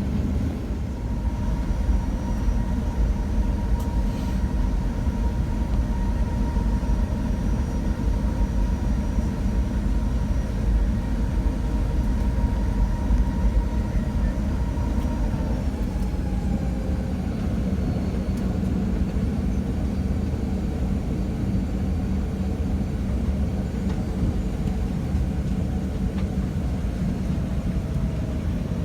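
Cabin noise of a Boeing 737-900ER taxiing after landing: a steady low rumble from its CFM56-7B engines, with a whine that falls in pitch about halfway through.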